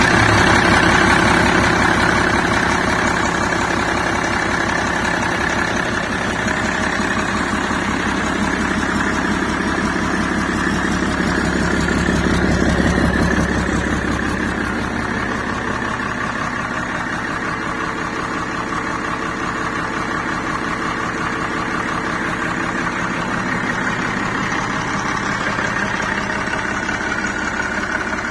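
Perkins Sabre M225Ti six-cylinder turbocharged marine diesel engine running at idle just after starting, with a steady diesel clatter; it swells a little about twelve seconds in, then settles.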